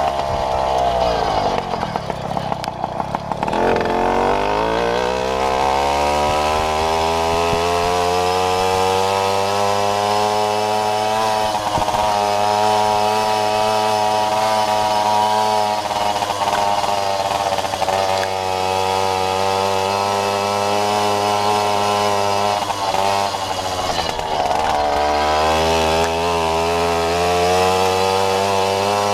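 Jawa Babetta moped's 50 cc two-stroke single-cylinder engine being ridden: it drops to low revs near the start, revs back up and holds a steady high buzz, then eases off briefly near the end and picks up again.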